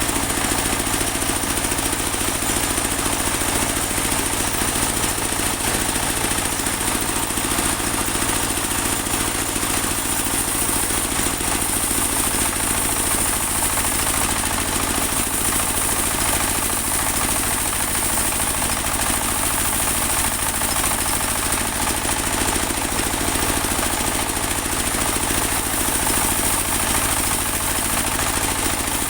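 Engine-driven portable bandsaw sawmill running steadily, an even engine hum with a steady high-pitched hiss over it.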